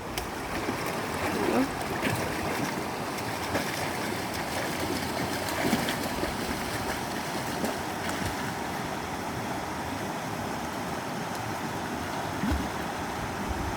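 Rushing water of a mountain stream, a steady hiss with a few brief knocks and splashy clicks in it.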